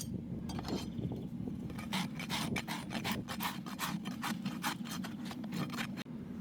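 Farrier's rasp filing a horse's hoof in quick, even back-and-forth strokes, about three a second, over a steady low hum.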